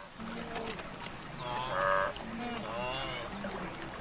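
Wildebeest herd calling: a run of short grunting calls from several animals, the loudest about halfway through, with a bird chirping faintly.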